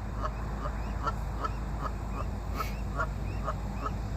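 Ducks calling in a quick, regular run of short calls, about three a second, over a steady low hum.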